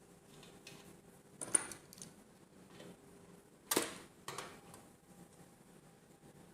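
Metal parts clinking and clattering as they are handled during ceiling-fan assembly: two sharp clanks, about one and a half seconds in and the louder just under four seconds in, followed by a lighter knock.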